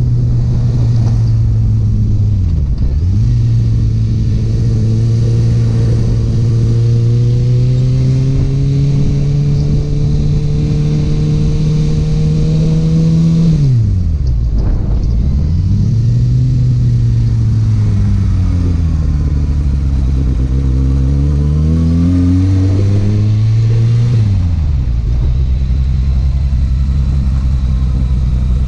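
Kawasaki Ninja ZX-6R inline-four sport-bike engine with an Akrapovič exhaust, running under way. Its note holds and climbs slowly, drops steeply about three seconds in and again around halfway, swings down and up through the middle, then drops once more and settles to a steady lower note for the last few seconds.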